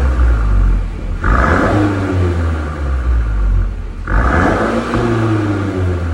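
Mercedes-Benz GLC300 (X253) engine revved through an aftermarket valved (variable) exhaust: a deep rumble with two rev blips, about a second in and again about four seconds in, each climbing and then falling back.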